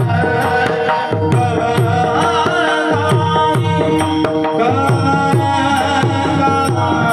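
Mridang (pakhawaj) drumming in kirtan music, its deep bass strokes sliding down in pitch about twice a second, under singing voices and a held drone.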